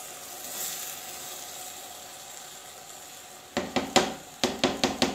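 Spinach sizzling in oil in a clay matka pot, a steady hiss. About three and a half seconds in, the spatula knocks against the clay pot about seven times in quick succession, each hit ringing briefly.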